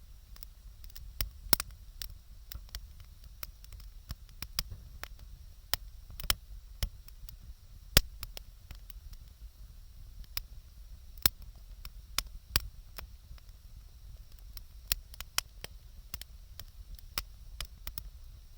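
Wood fire crackling: irregular sharp pops and snaps of burning wood, a handful of them much louder than the rest.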